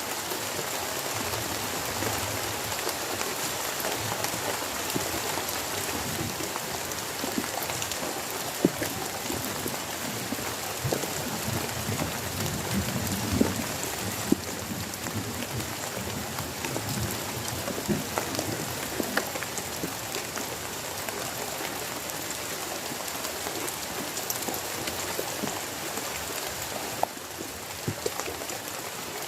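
Heavy rain falling steadily, with many individual drops tapping sharply on a nearby surface.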